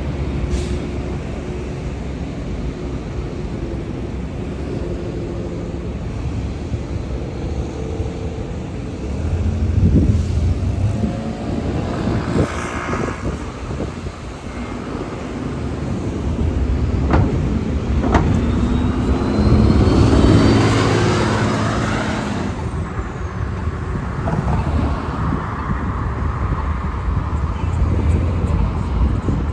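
Street traffic passing steadily. A vehicle goes by close about ten seconds in, and another around twenty seconds in, loudest of all, with an engine whine rising in pitch as it passes.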